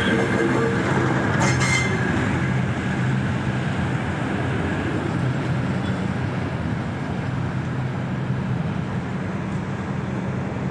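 Diesel railcar train running past at close range: a steady engine drone over the noise of its wheels on the rails.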